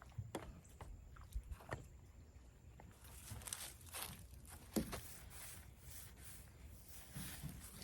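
A window-washing tool being scrubbed across a van's roof in soft swishing strokes, with a few light knocks and clicks in the first couple of seconds.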